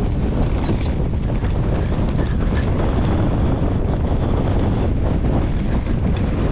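Wind buffeting the microphone of a mountain bike riding fast downhill, over the crunch and rattle of tyres on loose gravel.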